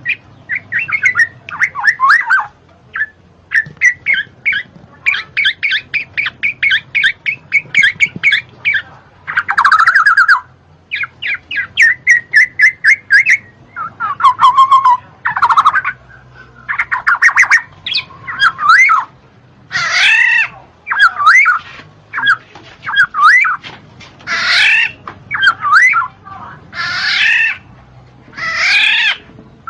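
Black-naped oriole (kepodang) calling and singing in a long series of phrases: fast runs of repeated notes, fluty whistles that slide up and down, and harsh squawks, with brief pauses between phrases.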